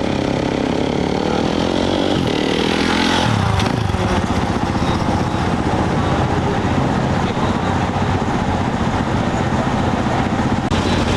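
Off-road race motorcycle engine revving up as the bike accelerates away from the start, its pitch rising with a break about two seconds in like a gear change. Then a steady mix of engine noise.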